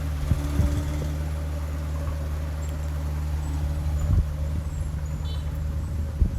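Heavy earthmoving machine's diesel engine running steadily at a low pitch, with a few short knocks and clunks, the loudest about four seconds in and near the end.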